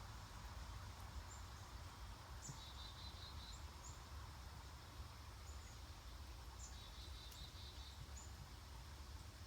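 Faint outdoor background of a steady low rumble, with a small bird giving two short, rapid high trills and a few brief chirps.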